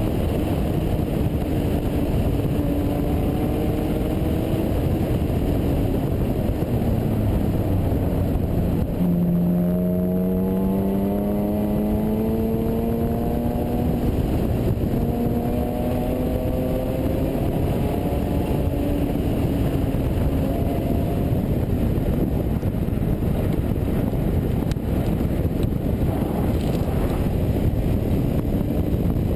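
Sports car engine driven hard on a racetrack: the engine note drops, then climbs twice as it pulls up through the gears. Heavy wind and road noise on an outside-mounted microphone.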